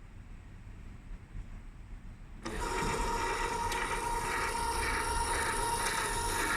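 Electric motor of a fire truck's remote-controlled water monitor turning the nozzle, a steady whine with an even pulsing that starts about two and a half seconds in and cuts off sharply near the end.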